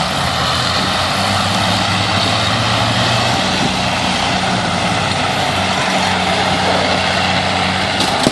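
Tractor engine running steadily at a constant speed, with an even low hum.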